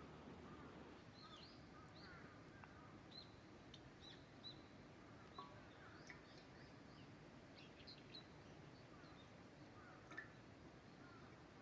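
Small birds chirping faintly in scattered short calls over a quiet outdoor background, with one soft click near the end.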